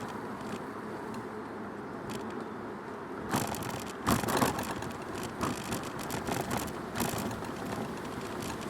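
Bicycle tyres rolling along a path, heard through a recorder fixed to the bike, with the bike rattling and knocking over bumps from a few seconds in, the loudest jolt about four seconds in.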